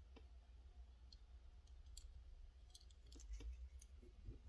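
Faint scattered clicks and taps of a small die-cast metal toy car being handled and turned over, over a low steady hum.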